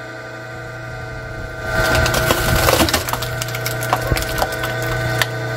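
A machine splitting firewood logs: a steady motor hum, then from about two seconds in the wood cracks and splinters with many sharp snaps.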